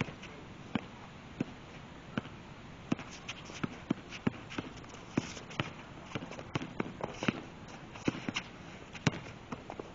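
A basketball bouncing again and again on the court during play, with players' running footsteps: a string of sharp knocks at uneven intervals.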